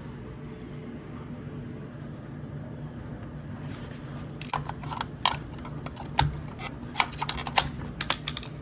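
Steady low electrical hum from the running refrigerator's machinery, joined about halfway through by a run of sharp clicks and knocks as parts at the back of the unit are handled.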